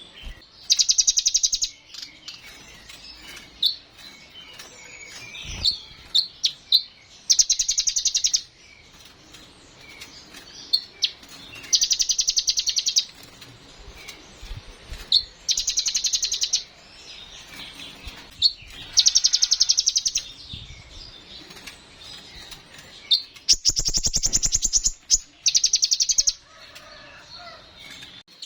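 Brown-throated sunbird (kolibri ninja) singing: seven short, high, rapid trills, each about a second long and a few seconds apart, with single sharp chips between them.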